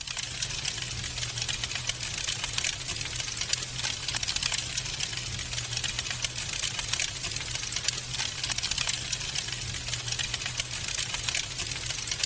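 Wood fire crackling in a fireplace: a dense, steady run of small pops and snaps, with a few louder pops, over a low steady rumble.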